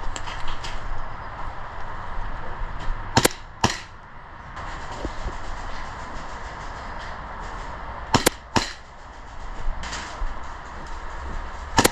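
Airsoft gun shots: sharp cracks in two quick pairs, each pair about half a second apart, and a single shot at the end, over steady shuffling and gear rustle.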